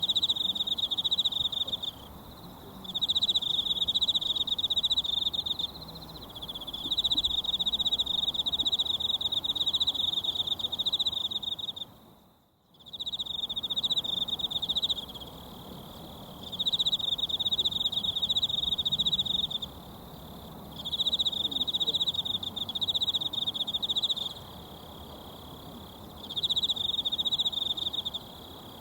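An insect trilling in repeated bouts of two to four seconds with short pauses between, over the faint steady rush of a mountain stream. All sound drops out briefly a little under halfway through.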